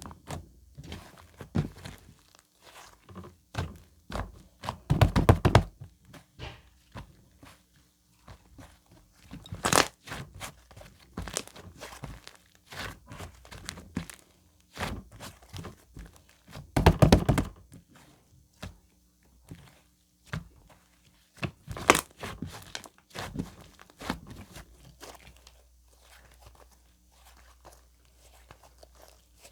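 White slime being squeezed, stretched and pressed by hand, making a run of small sticky clicks and crackles, with a few louder squelching presses about 5, 10, 17 and 22 seconds in.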